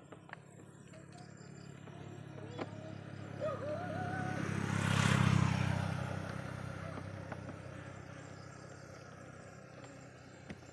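A motor vehicle passes by, its engine rumble and tyre noise swelling to a peak about five seconds in and then slowly fading away. A couple of light clicks come in the first three seconds.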